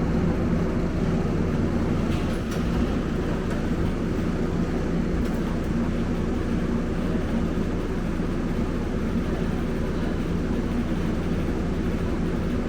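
Scania K270UB single-decker bus running at a steady pace: a continuous low engine and road rumble with a faint steady hum.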